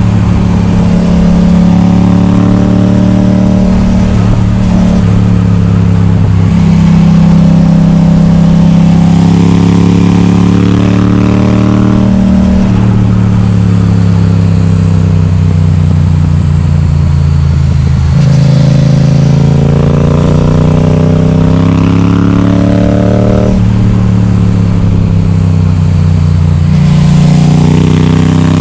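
Yamaha XSR700's 689 cc parallel-twin engine, loud through an Akrapovic exhaust with its baffle removed, pulling hard on the road. Its note climbs under acceleration several times, drops sharply at each upshift, and eases off in a stretch near the middle.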